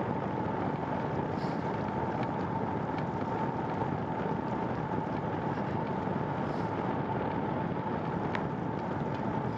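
Steady wind rush and rolling noise from riding a bicycle at cruising speed on a wet trail, with a thin steady tone running underneath.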